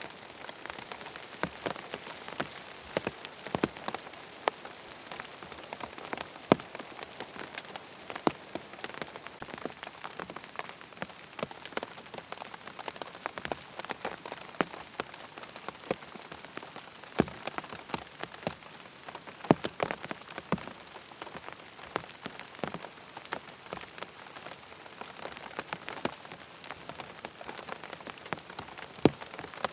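Steady rain falling on a surface, an even hiss dotted all through with many short sharp ticks.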